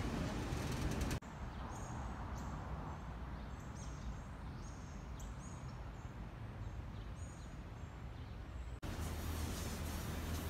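Small birds chirping among trees: a string of short, high chirps, each dropping in pitch, over a steady low rumble. Steady city street noise comes before this and cuts back in abruptly near the end.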